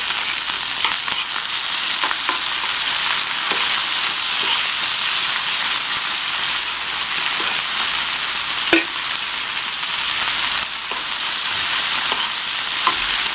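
Chopped tomato, onion, garlic and ginger sizzling steadily in hot oil in a frying pan, with a spoon stirring through them and now and then clicking against the pan.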